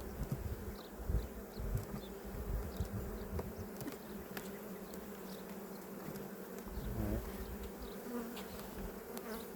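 Honeybees buzzing steadily around an opened hive, with one bee's buzz swooping up and down close by about seven seconds in and a few faint clicks.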